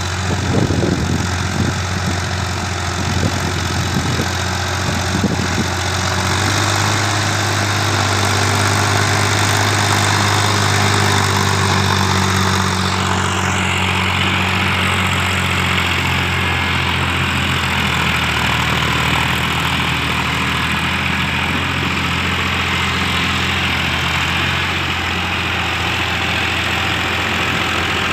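A tractor engine running steadily at a constant speed, a little uneven for the first few seconds, then settling into an even hum.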